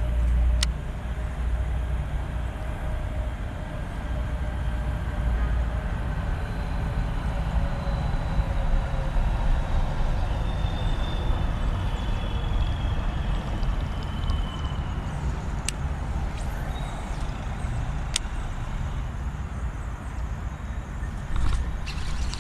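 Steady rumble of road traffic, with a passing vehicle whose tone slowly falls over about ten seconds, and a few sharp clicks.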